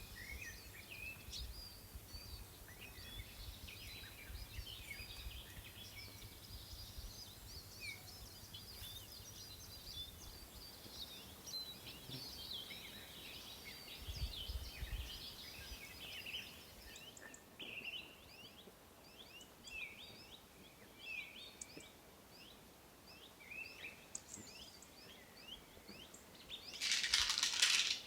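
Songbirds chirping and singing, many short quick calls overlapping, with a low rumble during the first half. A loud hiss lasting about a second comes near the end.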